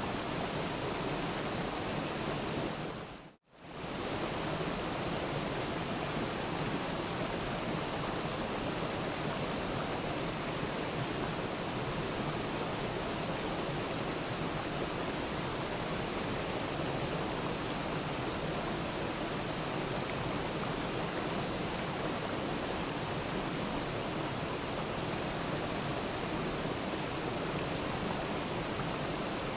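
Waterfall: a steady, even rush of falling water. About three and a half seconds in it fades out to near silence for a moment, then fades back in.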